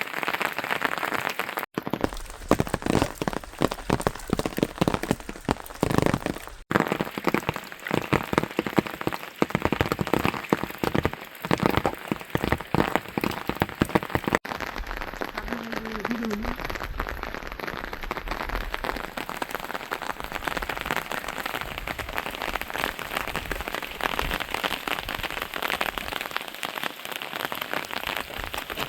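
Steady rain falling, with many close drops and drips striking a surface. The sound changes abruptly three times, about 2, 7 and 14 seconds in, with the close dripping most prominent in the first half.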